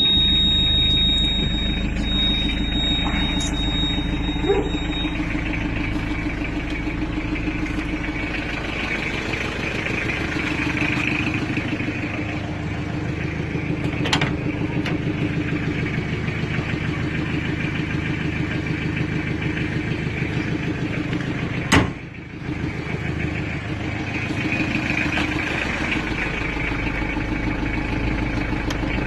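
1986 Isuzu Trooper's 2.2-litre turbo diesel engine running steadily, with a high steady tone in the first five seconds and a single sharp click about three-quarters of the way through.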